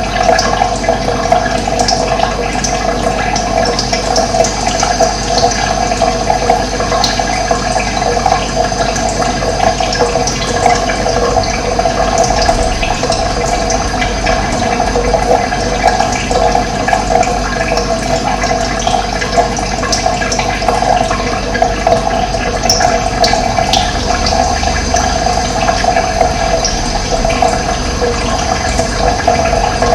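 Running water, a steady continuous rushing flow.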